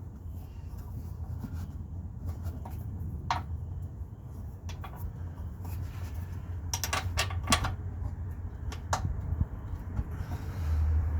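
Scattered sharp metallic clicks and knocks of hand tools and parts being handled during engine-mount work, with a quick run of several clicks about seven seconds in, over a low steady rumble.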